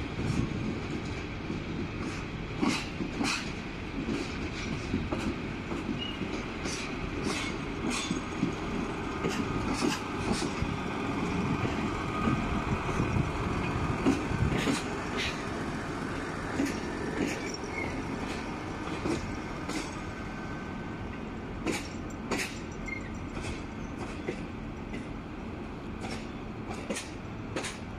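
Duewag BR628 diesel multiple unit rolling into the station, its wheels clicking irregularly over rail joints and points over a steady running noise. The sound swells to its loudest about halfway through, then eases off.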